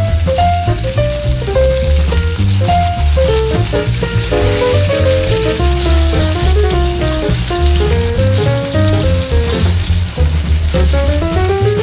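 Onions frying in hot oil in a pan, a steady sizzle, under background music with a melody and bass line.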